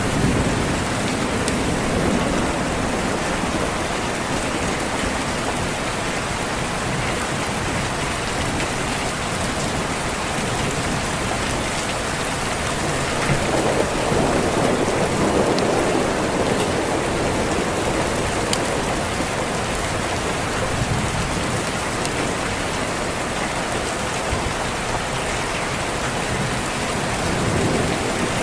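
Steady heavy rain with low thunder rumbles. One rumble swells about halfway through and another comes near the end.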